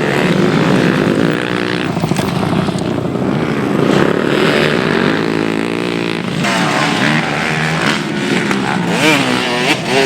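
Several motocross bike engines revving hard at once, their pitch repeatedly climbing and dropping as the riders work the throttle and shift; sharper rise-and-fall sweeps in the last couple of seconds.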